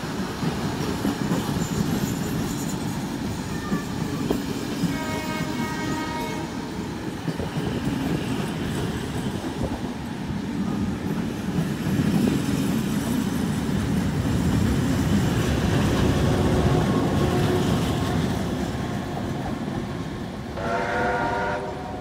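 A heritage passenger train of carriages rolling past, with a steady rumble and wheels clicking over rail joints and points. A multi-note train horn sounds briefly about five seconds in and again near the end, as the diesel locomotive at the rear of the train comes by.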